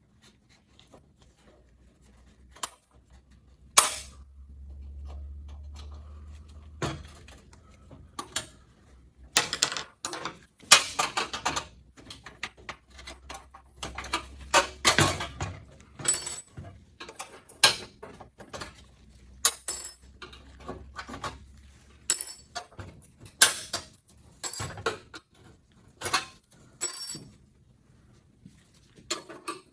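Irregular sharp clicks, knocks and clatters of hands and tools working on plastic and metal truck body parts, coming thick and fast from about ten seconds in, over a faint low hum at times.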